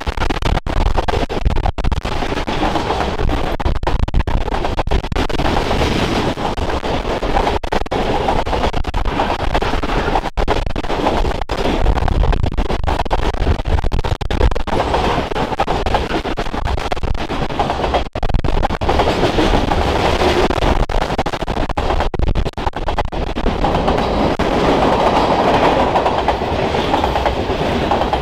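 Freight train of tank cars and covered hoppers rolling past close by: steel wheels running on the rails in a steady rumble, with many sharp clicks as the wheels pass over the rail joints.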